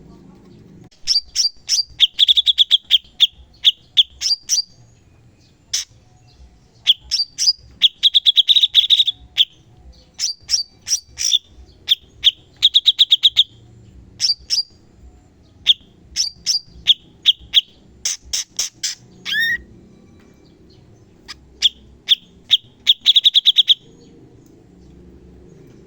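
Cucak cungkok singing in rapid volleys of sharp, high notes, the fast 'tembakan' bursts, each a second or two long with short pauses between. A brief gliding whistle comes a little past two-thirds of the way through.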